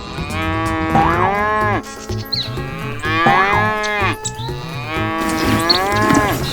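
A cow mooing three times, each a long call that rises and then falls in pitch, over background music with a low steady beat.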